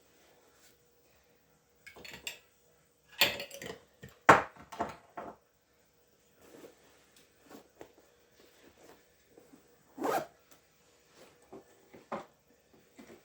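Hand work on a shoe: a run of short rasping, ripping strokes, crowded together about three to five seconds in, then single strokes near ten and twelve seconds.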